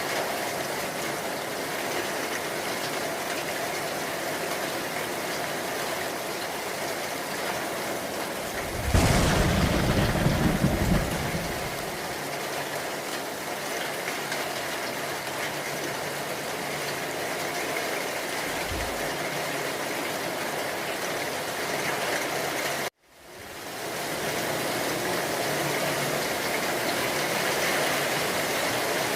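Steady heavy rain, with a loud low thunderclap about nine seconds in that rumbles for two to three seconds and a shorter low rumble later. Past the middle the sound cuts out abruptly for a moment and fades back in, like a splice in the recording.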